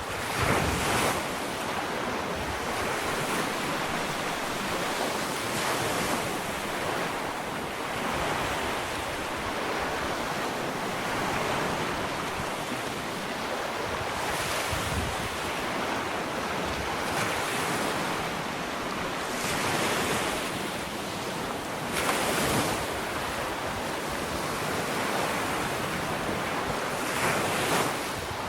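Ocean waves breaking and washing up a sandy beach in a steady, continuous surf, with louder swells every few seconds. Wind buffets the microphone.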